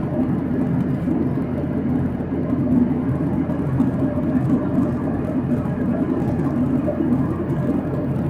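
Steady cabin noise inside a Boeing 737-800 in flight: a low, even rumble and whir from its CFM56 jet engines and the airflow over the fuselage.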